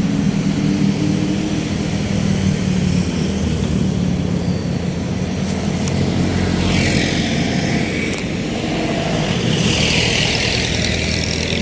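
A ferry boat's engine running with a steady low hum, with water rushing and splashing along the hull in two spells, about six and ten seconds in.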